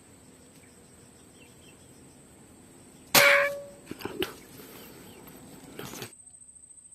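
A single sharp air rifle shot about three seconds in, followed a second later by a few smaller clicks and knocks. A steady high insect drone runs behind it.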